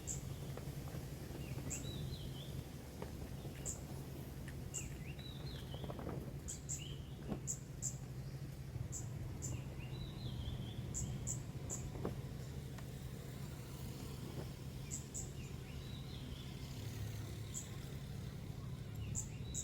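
Outdoor ambience: short, high chirps repeating irregularly, with squeaky wavering animal calls every few seconds, over a steady low hum.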